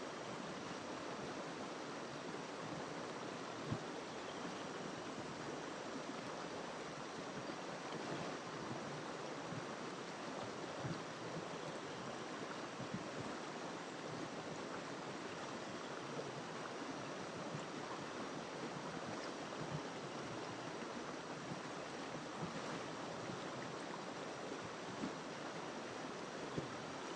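A river flowing, a steady rushing of water with a few brief splashes here and there.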